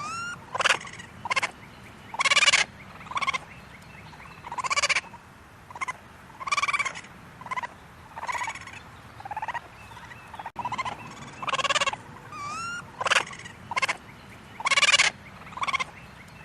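Animal calls: short rattling calls repeated about once a second, with a couple of brief rising whistle-like notes in between.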